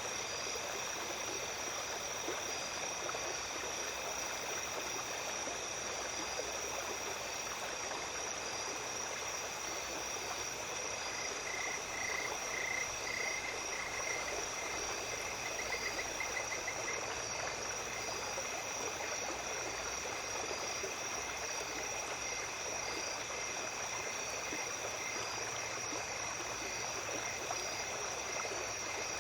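A small stream flowing steadily under a continuous chorus of night insects trilling at several high pitches. A faster pulsing call joins in from about 11 to 17 seconds in.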